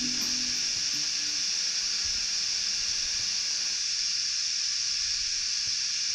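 A steady, unbroken high-pitched hiss.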